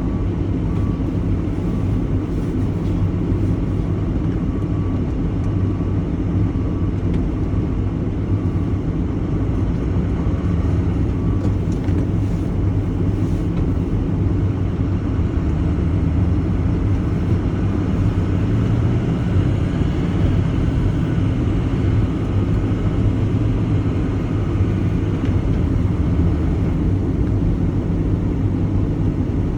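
A vehicle engine running steadily, swelling louder for a few seconds about two-thirds of the way through. A faint high beep repeats at an even pace through roughly the first third.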